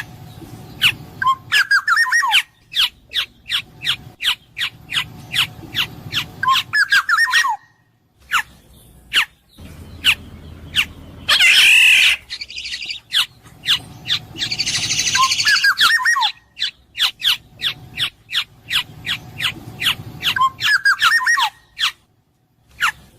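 Black-naped oriole calling: a rapid series of short, sharp notes, a few curving whistled phrases, and two loud harsh, rasping calls around the middle.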